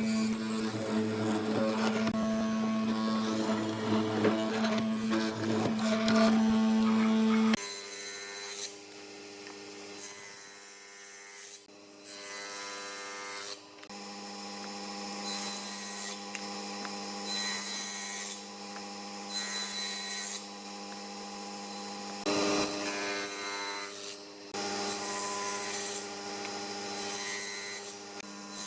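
A power tool's motor running with a steady hum, cut off sharply about seven and a half seconds in. Then repeated rubbing strokes of a tool on wood, roughly one every second or two, over a fainter steady hum.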